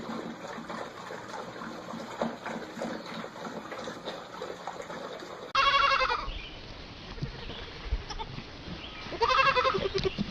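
A steady hiss with faint scattered sounds, then two loud, quavering bleats from a bleating animal: one about five and a half seconds in, the other about three and a half seconds later.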